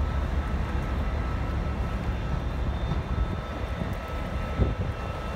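Diesel multiple unit approaching along the platform, its engines giving a steady low drone.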